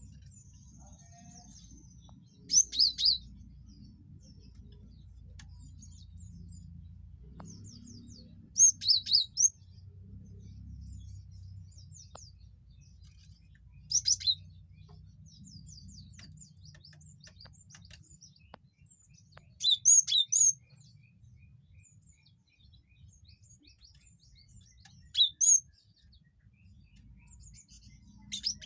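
Cinereous tit (gelatik batu) singing short, loud phrases of two to four quick, high whistled notes, repeated about every five to six seconds, with faint scratchy calls between phrases. A low hum runs underneath.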